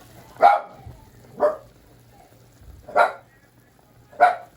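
A dog barking, four single barks about a second apart.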